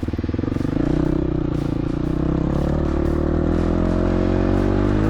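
Dirt bike engine running under way. The exhaust pulses are distinct at low revs for about the first second, then the revs pick up and settle into a steady note.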